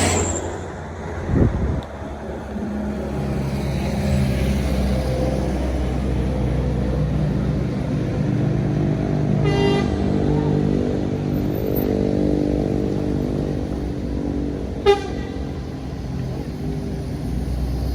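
Diesel bus engine running steadily as it passes, with two short horn toots about ten and fifteen seconds in; a brief thump about a second and a half in.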